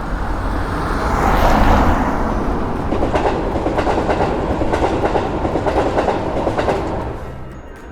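A train passing, its noise building over the first second or two, then its wheels clattering in a quick, even rhythm over the rail joints before the sound fades near the end.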